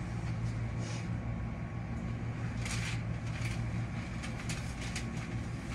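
Hankyu 8000 series electric train running, heard from the driver's cab: a steady low hum and rumble, with a few sharp clicks starting about halfway through.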